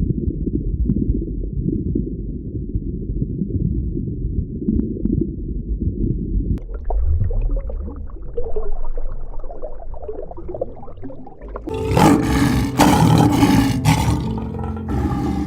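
An animal roaring. The first six and a half seconds are deep and low, then the sound spreads higher, and it is loudest and harshest in the last three or four seconds.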